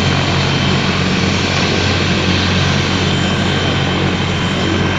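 Helicopter running: a loud, steady drone of engine and rotor, with a low hum and a thin high whine held level throughout.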